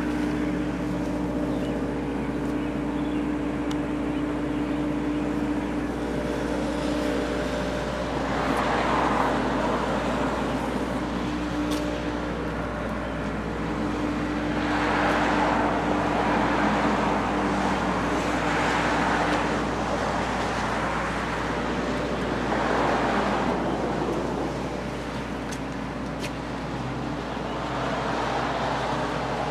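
Road traffic: a steady engine hum underneath, with several vehicles passing by in whooshing swells of a couple of seconds each.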